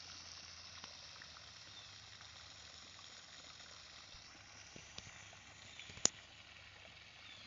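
Steady hiss of a pond fountain's water splashing, with a few faint bird chirps and one sharp click about six seconds in.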